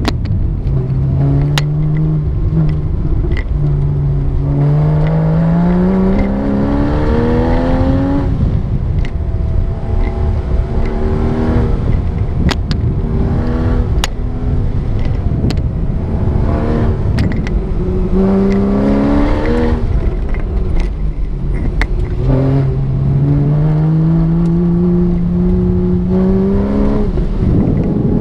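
A Porsche's engine heard from inside the cabin on an autocross course, accelerating and backing off in turn. Its pitch climbs in several long rises, about a second in, from about three to eight seconds, and again near the end, with drops between them, over steady road and tyre noise.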